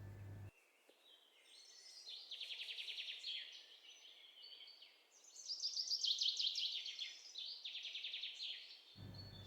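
Small songbirds chirping and singing, with bursts of fast, rattling trills. The loudest burst comes about six seconds in.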